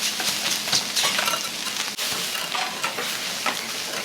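Food sizzling on an iron teppan griddle while metal spatulas scrape and tap against the plate in quick, irregular clicks.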